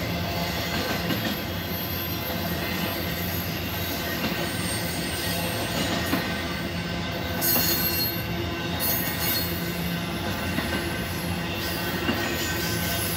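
Intermodal freight train of trailer-carrying flatcars rolling past: a steady rumble and rattle of wheels on rail, with thin high wheel squeal running through it. A louder, harsher high-pitched patch comes about seven and a half seconds in and lasts about a second.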